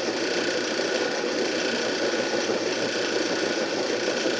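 Motor-driven can crusher running empty at a steady pace, its cogged V-belts and crushing wheels turning with an even mechanical whir and rattle.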